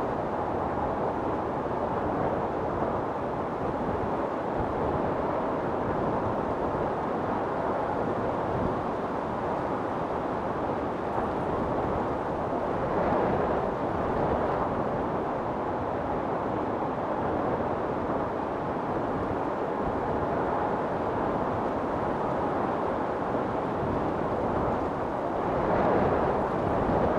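Storm wind blowing hard and steadily, swelling in gusts about halfway through and again near the end.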